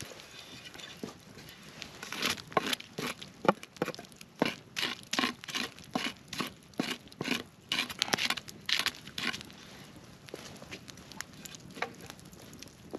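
Footsteps on crackly forest ground, a steady walking pace of about two to three steps a second, starting about two seconds in and stopping a few seconds before the end.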